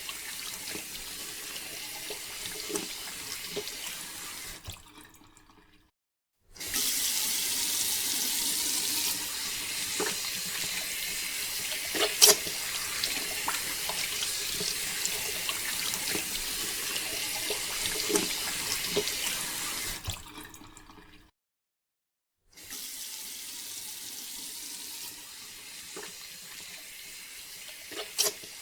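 Water running and pouring steadily, with a few sharp knocks or splashes; the sound fades out twice, around six and twenty-one seconds in, and comes back each time.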